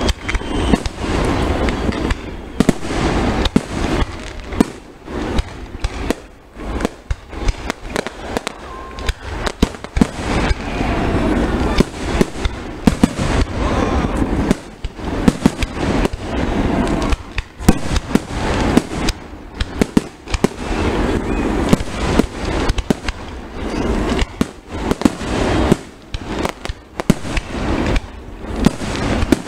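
Aerial fireworks display: shells bursting in rapid, continuous succession, many sharp loud bangs overlapping with crackling and a booming low rumble.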